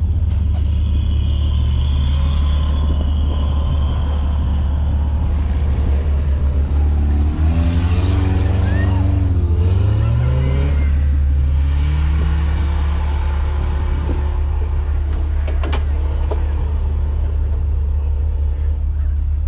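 An off-road 4x4's engine running under load with a steady low drone, revving up with a rising pitch about eight to ten seconds in, then easing and pulling again while driving through deep snow.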